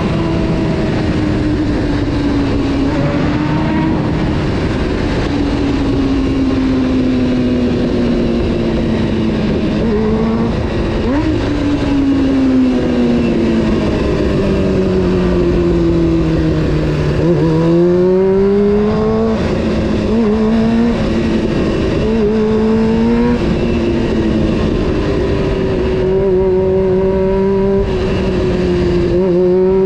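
Honda CBR600 F4's inline-four engine under way: its pitch sinks slowly through the first half as the bike slows, then climbs in a few short pulls with drops between them through the gear changes around the middle, and rises again near the end.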